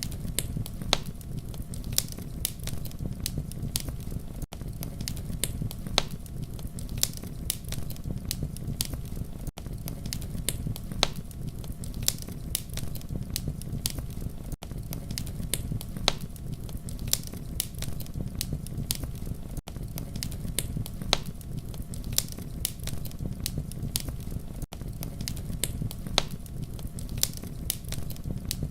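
Campfire burning with a steady low rumble and frequent sharp crackles and pops of burning wood. The sound dips briefly about every five seconds, as at the seams of a looped recording.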